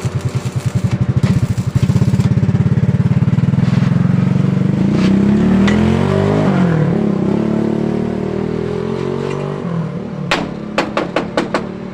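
Motorcycle engine running close by, pulsing at first, then revving up and holding before it fades away. A series of sharp knocks near the end.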